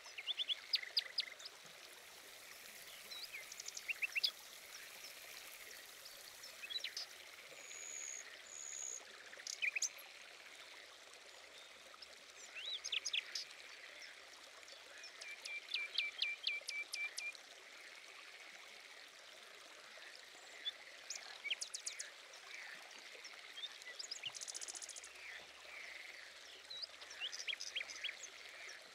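Small birds chirping in quick runs of short, high notes that come and go over a steady background hiss. Among the chirps is a brief, thin, high whistle about eight seconds in.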